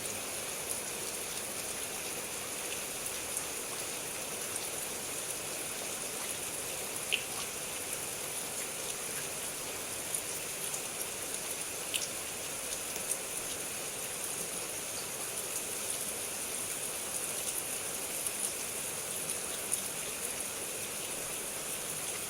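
Heavy rain falling steadily: an even hiss with scattered drop ticks, and a few sharper ticks of drops striking a surface.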